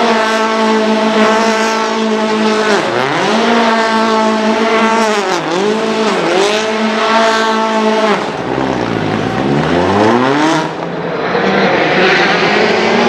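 Citroën C4 WRC rally car's turbocharged four-cylinder engine held at high revs under full throttle. Its pitch drops and climbs back several times as the driver lifts and gets back on, with the deepest dip about eight seconds in. A rushing noise rises over the engine near the end.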